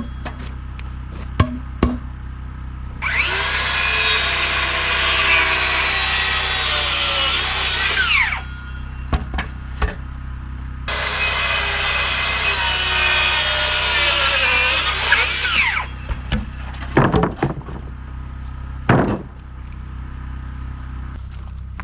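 Power saw cutting wood twice, each cut about five seconds long, the motor's pitch sagging as the blade bites. A few sharp knocks follow near the end, over a steady low hum.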